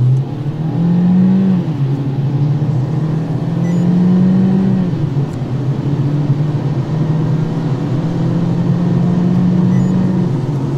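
Citroën C4 sedan's 150 hp engine under full-throttle acceleration, heard from inside the cabin. The revs climb, drop at each upshift about one and a half, five and ten seconds in, then climb again.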